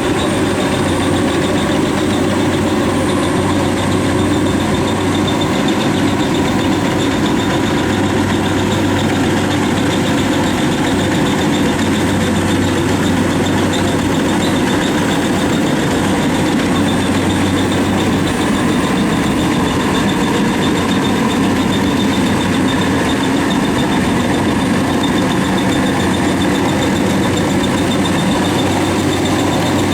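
WD 102 rice combine harvester's engine running steadily under load while it cuts waterlogged, lodged rice.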